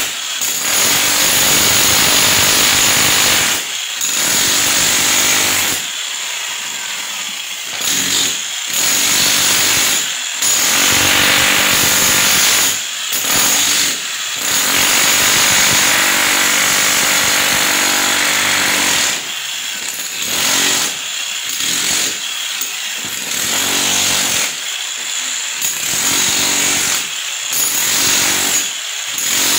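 A handheld electric power tool used in building work, running hard in stretches of one to several seconds, its sound dropping back briefly between them.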